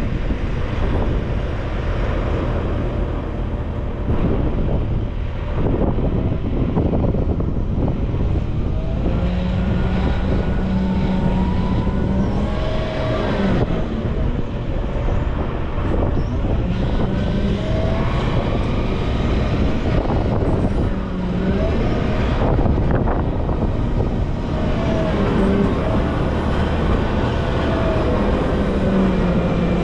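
Volvo L90F wheel loader's diesel engine running under load, with a whine that comes and goes and rises and falls in pitch as the machine works.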